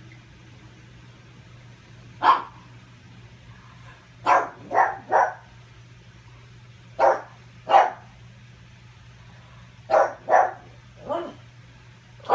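Pug barking at its own reflection: about ten short, sharp barks, one at a time or in quick runs of two or three, a few seconds apart. A faint steady low hum runs underneath.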